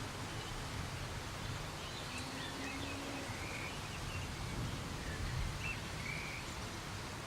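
Soft rain falling, a steady hiss. A few short bird chirps come through it about two to three seconds in and again around six seconds.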